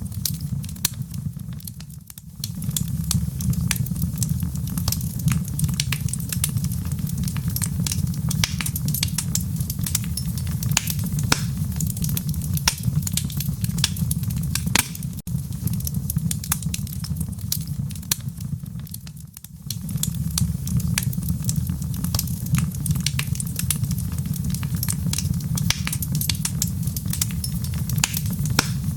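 Wood fire crackling in a fireplace: a dense stream of sharp pops and snaps over a steady low rumble, dipping briefly twice.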